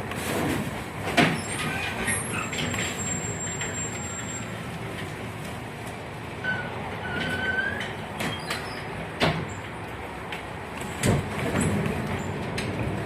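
71-619KT tram car running, heard on board: a steady rolling rumble with a few sharp knocks from the wheels and track, and a brief thin high whine.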